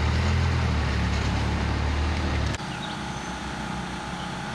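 An engine running steadily with a loud low hum. About two and a half seconds in it cuts off abruptly to a quieter, lower engine sound.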